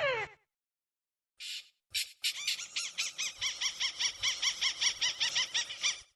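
Crake calling: a short falling note at the start, a brief harsh note, then a long fast run of repeated chattering notes, several a second, that stops sharply near the end.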